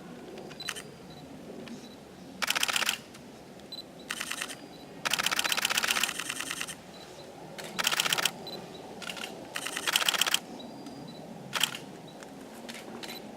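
Camera shutter firing in rapid bursts of continuous shooting: about six runs of fast clicks, the longest about a second and a half, with short gaps between them.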